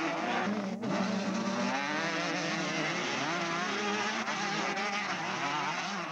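Several motocross motorcycles' engines buzzing and revving on the track, their pitches rising and falling and overlapping as the riders accelerate and shift.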